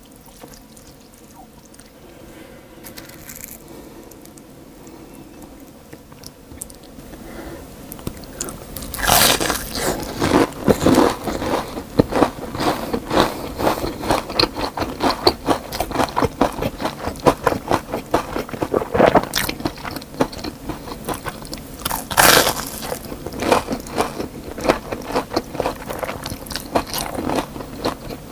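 Crunching and chewing of crispy deep-fried pork cutlet (tonkatsu) being bitten into, a rapid run of crunches that starts about nine seconds in and goes on; before that only faint quiet handling sounds.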